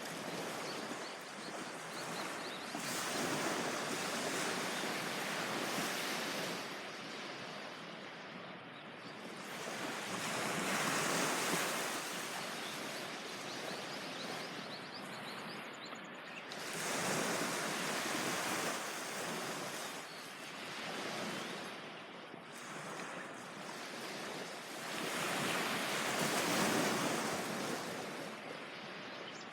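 Surf on a beach: waves washing in, the rush of water swelling and falling back about every six seconds.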